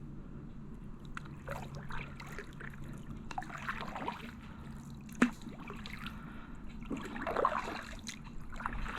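Kayak paddle strokes in calm water: the blades dip and splash, and water trickles and drips off them every second or two. A single sharp knock comes about five seconds in.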